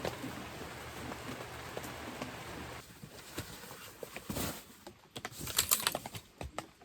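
Rain pattering steadily with many small drips. It cuts off abruptly about three seconds in, followed by bursts of light clicking and clattering.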